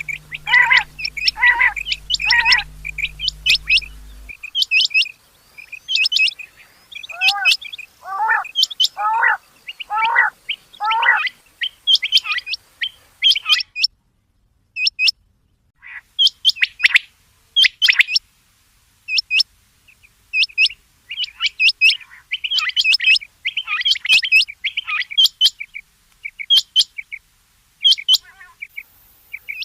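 Rain quail calling over and over in quick, sharp notes, with a run of five lower, arched calls about a second apart near the middle. A low steady hum sits under the first four seconds and then stops.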